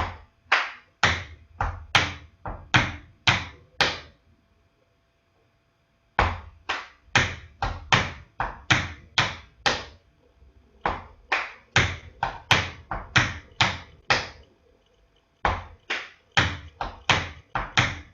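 Tap shoes striking a hard floor mixed with hand claps, dancing the Shim Sham break (heel, clap, step, heel, toe, step, step, step). Four rhythmic phrases of quick, sharp strikes, each about four seconds long, with short pauses between them.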